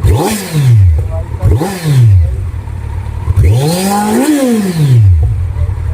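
Kawasaki Z900's 948 cc inline-four engine revved in throttle blips: two short blips that rise quickly and fall back to idle, then a longer rev about three and a half seconds in that climbs for about a second before dropping back to idle.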